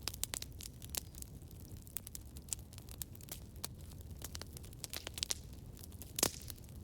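Campfire crackling: irregular sharp pops and snaps of burning wood over a low steady rumble of the flames, with one louder pop about six seconds in.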